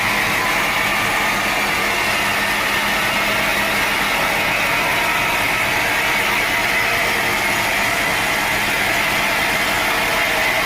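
Sawmill log saw running steadily, a loud, even machine noise with no breaks.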